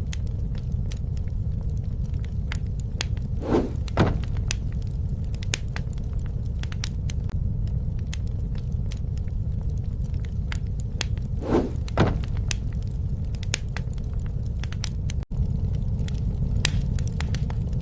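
Wood fire burning, with many sharp crackles and snaps over a steady low rumble; two pairs of louder pops come about four and twelve seconds in.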